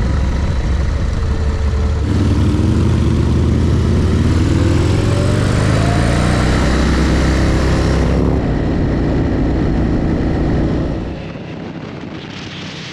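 Motorcycle engine running at road speed with wind rush, its pitch climbing steadily as it accelerates from about two seconds in, then easing off and getting quieter near the end.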